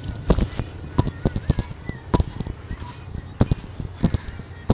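Irregular sharp knocks and thumps, several a second, with a few faint bird chirps between them.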